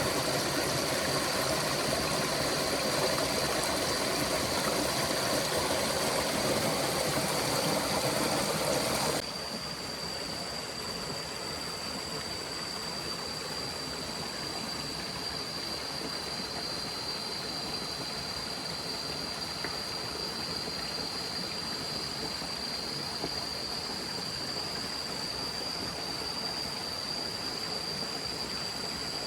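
Steady rushing of a forest stream, with a thin, steady high whine over it. About nine seconds in, the sound drops abruptly to a quieter, even rush.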